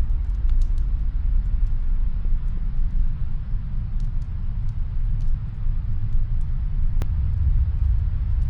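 Snowstorm wind as a steady low rumble, with scattered faint crackles of a wood fire. A sharper pop comes at the start and another near the end.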